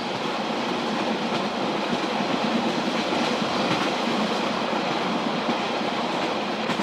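Steady rolling noise of a passenger train heard from inside the carriage, its wheels running on the rails with a few faint clicks.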